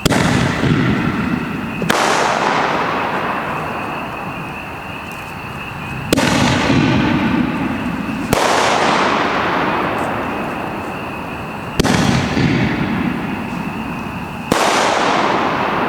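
Homemade aerial ball shells bursting in quick succession: six sharp reports, each trailing off into a long fading rumble.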